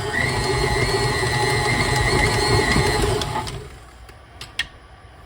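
Electric mixer motor running at a raised speed, beating dumpling batter with a steady whine; it shuts off about three and a half seconds in, followed by a couple of light clicks.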